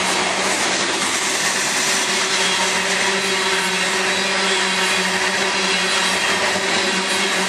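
Loaded coal hopper cars rolling past at speed: a steady, unbroken noise of steel wheels on rail, with a steady hum underneath.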